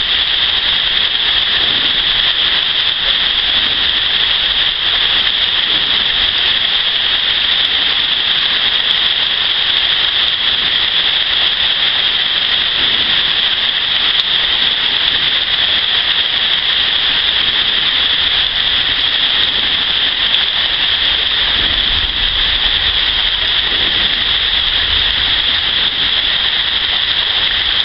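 Heavy rain pouring onto flooded swamp water and foliage: a steady, even hiss, with low rumbles twice near the end.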